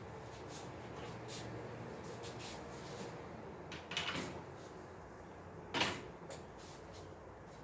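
Knocks and clatter of baby-crib parts being handled and fitted together during assembly, with two louder sharp knocks, about four seconds in and again near six seconds, and faint clicks between.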